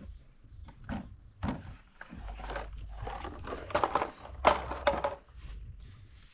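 A series of knocks and thuds, with a busier run of clattering strikes in the middle.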